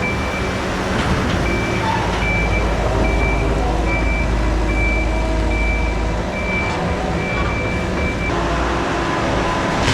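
Skid steer running while reversing, its engine rumbling under a steady backup alarm beeping a little more than once a second; the beeping stops near the end as the machine stops backing up.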